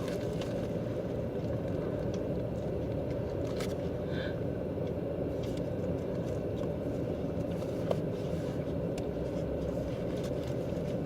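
Steady low rumble of a car's interior noise, with scattered faint small clicks and a brief faint squeak about four seconds in.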